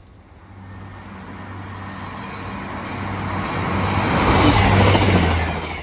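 Northern diesel multiple unit coming through the station towards the listener, its diesel engine note and the rumble of wheels on rail growing steadily louder to a peak near the end.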